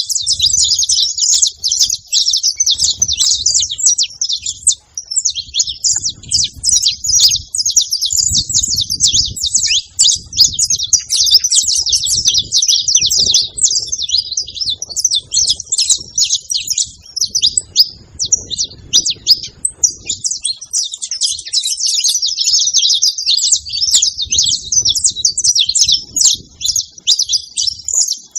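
Saffron finch (canário-da-terra) singing: a fast, dense stream of high chirps and trills, nearly continuous with only brief lulls, over faint intermittent low rumbling.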